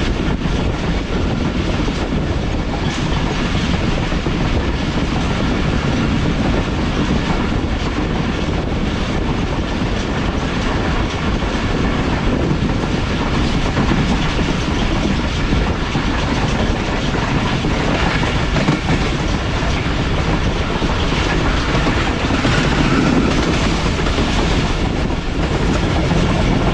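Passenger train running at speed, heard from on board: a steady rumble with the clickety-clack of the wheels over the rail joints.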